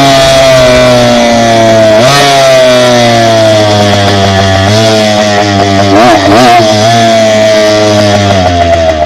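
Dirt bike engine running on the move, its note sagging slowly and picking up again with the throttle about two seconds in and near five seconds, then dropping toward a lower, pulsing idle near the end.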